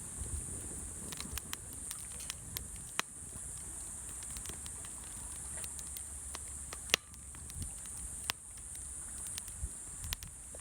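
Wood fire crackling in a fire pit: irregular sharp pops and snaps, one louder pop about seven seconds in, over a steady high hiss.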